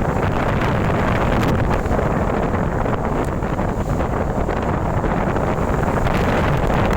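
Strong storm wind buffeting the microphone: a steady, loud rushing noise heaviest in the low end, with a few faint ticks.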